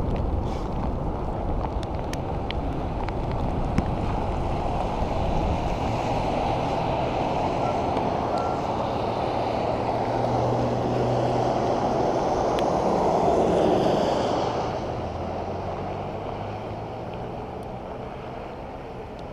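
Wind buffeting the microphone on a moving bicycle, with a motor vehicle passing by: its hum builds, peaks about two-thirds of the way through, then fades away.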